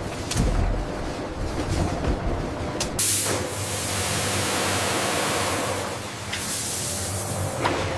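Processing-plant machinery running with a steady low hum and scattered clicks. About three seconds in, a loud hiss starts abruptly and eases off a few seconds later.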